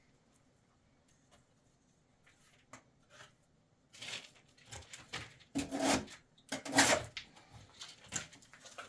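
Quiet for about four seconds, then a run of knocks and clatters, as of things being handled and set down, with two louder thumps about a second apart near the end.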